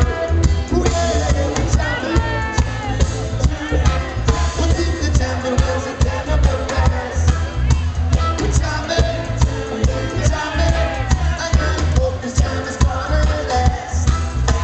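Live reggae band playing with a lead singer, over a heavy, pulsing bass line and a steady beat.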